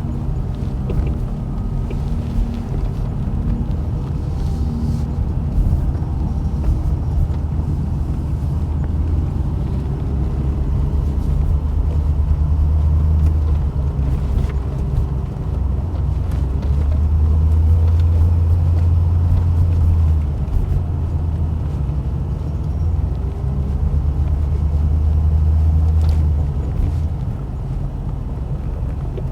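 A truck driving, with its engine and road noise as a steady low rumble that swells louder three times as it pulls.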